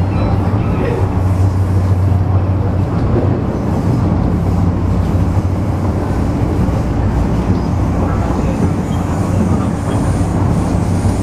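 Interior running noise of an MTR East Rail Line MLR (Metro-Cammell) electric multiple unit travelling at speed. It is a steady low hum with continuous wheel-on-rail noise.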